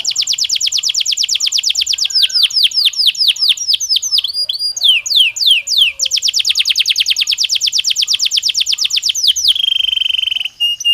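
Belgian canary singing. It opens with a fast trill of repeated downward-sweeping notes, moves to a slower run of falling notes in the middle, and goes into another long fast trill. Near the end it holds a steady rolling note.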